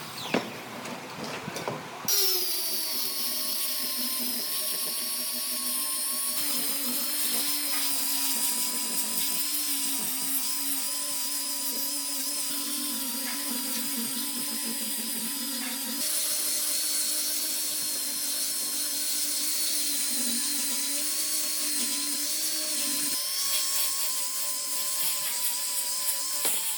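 Handheld electric power tool running steadily on wood, its motor giving a high whine, starting about two seconds in after a few knocks. The pitch dips slightly as it starts to cut, and the sound changes abruptly a few times.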